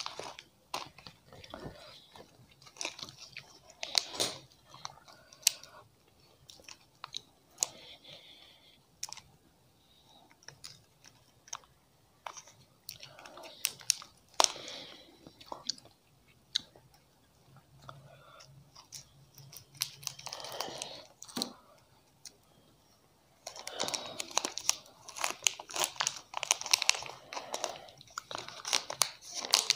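Close-miked chewing and crunching of chocolate, in short bursts with sharp clicks. About three-quarters of the way in, a dense crackling sets in as a plastic chocolate-bar wrapper is crinkled and torn open.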